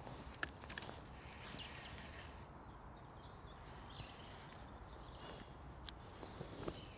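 Small birds chirping over faint outdoor background noise, with a few sharp clicks, the loudest about half a second in and a few more near the end.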